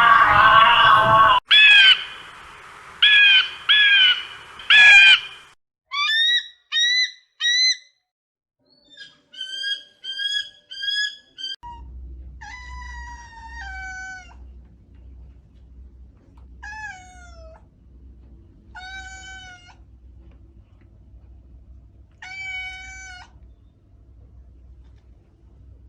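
A string of separate animal calls. Groups of short, high, pitched calls come first, then longer calls that slide down in pitch, over a low steady hum.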